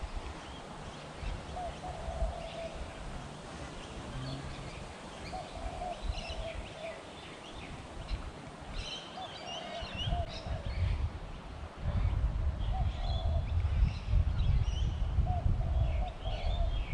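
Birds calling around a pond: a short, low warbling call repeated every second or two, with scattered higher chirps. From about ten seconds in a low rumble comes up under them and becomes the loudest sound.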